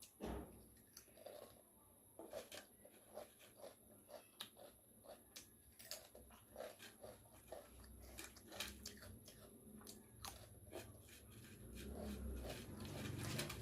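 Potato chips being bitten and chewed: quiet, irregular crisp crackles and crunches. A low rumble builds near the end.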